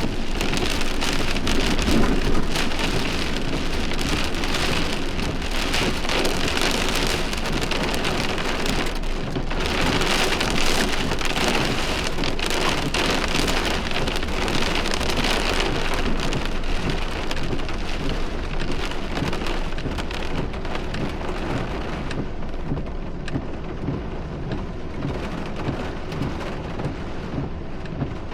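Heavy thunderstorm rain falling steadily on a hard surface, a dense hiss of drops, easing slightly in the last few seconds.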